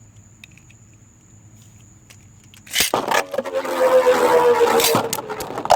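Beyblade spinning tops launched into a plastic stadium about three seconds in, whirring and clashing with scraping and clattering, and a spinning whine that falls slowly in pitch. A sharp loud clash comes near the end as one top scores the point.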